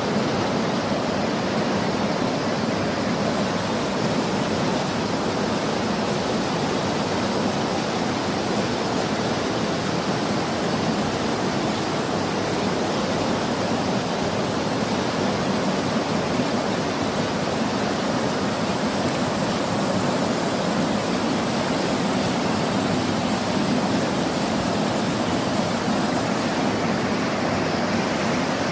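Waterfall and river water rushing, a steady, unbroken roar of falling and flowing water.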